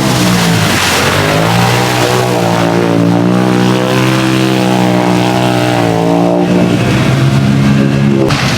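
Off-road vehicle engine running hard at high revs, its pitch dipping and climbing as the throttle is worked. It breaks off abruptly near the end into another engine note.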